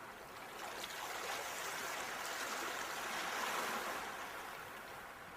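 Sea waves washing onto the shore: a rush of water that swells to a peak about three seconds in and then eases back.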